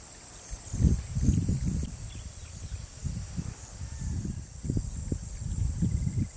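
Wind buffeting the microphone in irregular low gusts, over a steady high-pitched hiss.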